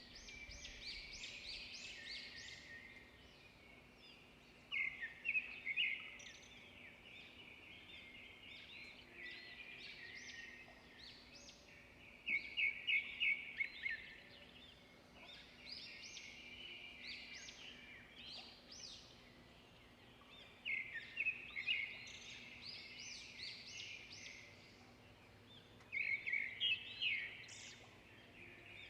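Songbirds singing: a loud phrase of quick, rapid chirps comes back every several seconds, with softer chirping in between.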